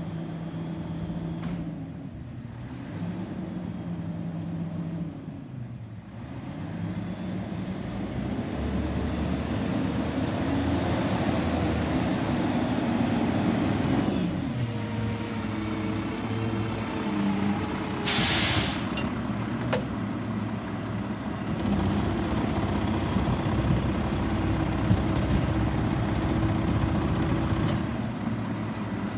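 Garbage truck engine running and revving up and down, with a short, loud hiss of released air from the air brakes about two-thirds of the way through.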